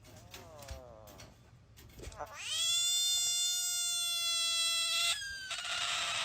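A cat calling: a short faint falling meow, then one long loud held yowl of about three seconds, followed by a harsh noisy burst near the end.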